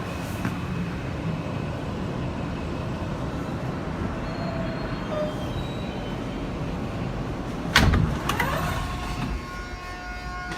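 New York City subway car interior: steady rumble of the train, a loud sharp bang about eight seconds in, then a steady whine from the car's motors.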